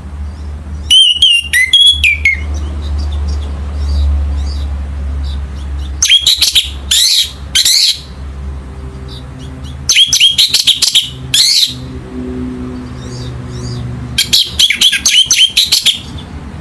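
Orange-headed thrush (anis merah) singing: four bursts of quick, high notes a few seconds apart, over a steady low hum.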